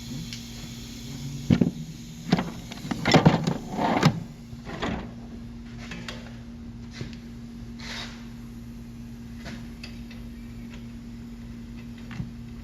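Several sharp clanks and knocks of tools and parts being handled during a wheel bearing repair, bunched in the first few seconds, over a steady low hum.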